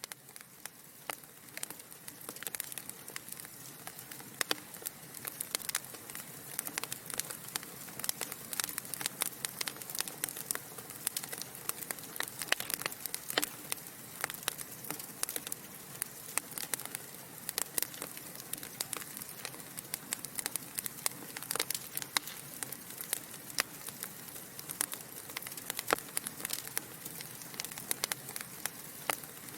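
Wood fire burning in a fireplace, with a constant soft hiss and frequent sharp crackles and pops from the logs. It fades in over the first few seconds.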